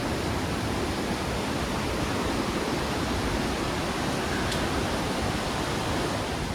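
Steady rush of the James River's water flowing over rapids.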